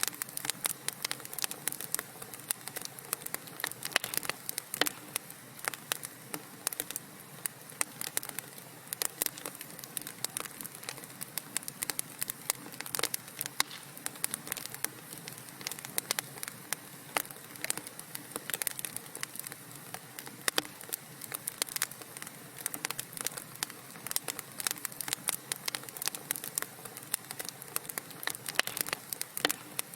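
Wood fire crackling in a fireplace: many irregular sharp pops and snaps over a soft steady hiss.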